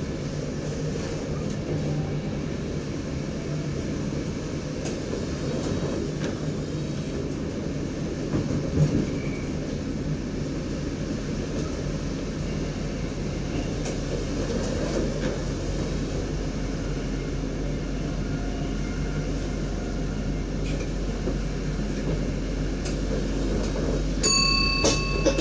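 NS DDZ double-deck electric train running, heard from the driver's cab: a steady rumble and rail noise with scattered clicks over the track. A short electronic beep sounds near the end.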